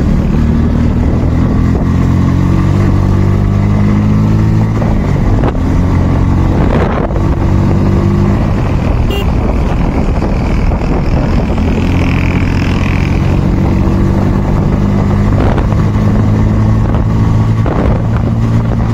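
Bajaj Pulsar N160's single-cylinder engine running hard at about 90 km/h in fifth gear. Its note is steady, apart from a couple of brief dips.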